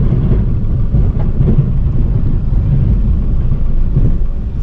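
Chevy K3500 dually's Duramax V8 turbodiesel running, a steady low rumble with no clear changes in pitch.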